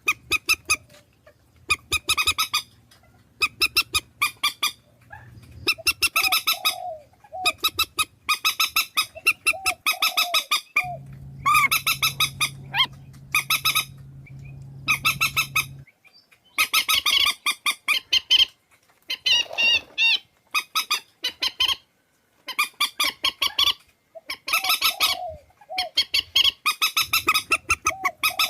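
Recorded swamphen calls played as a trapping lure: bursts of harsh, rapid rattling squawks repeated every second or two, with softer lower notes between them. A low steady hum sits under the calls for several seconds in the middle.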